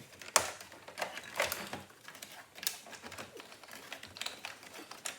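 Plastic interior trim and wiring connectors being handled and fitted into a car's dash and centre console: irregular clicks and knocks, the sharpest about half a second in.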